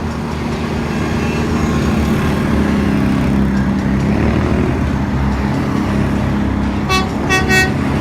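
Truck engine running steadily with a heavy low drone; near the end a horn sounds three short toots.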